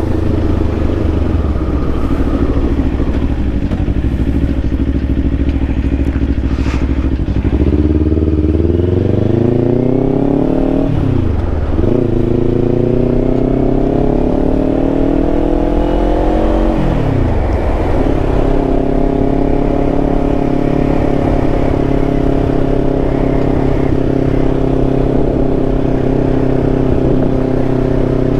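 Kawasaki Ninja 500's parallel-twin engine running at a steady pitch, then accelerating: the pitch climbs, drops sharply at an upshift, climbs again, drops at a second upshift, and settles into a steady higher cruise.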